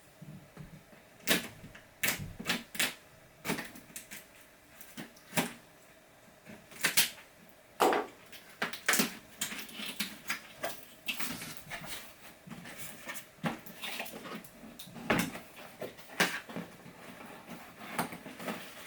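Cardboard box and plastic packaging being handled: irregular clicks, taps and short rustles, with a few louder knocks.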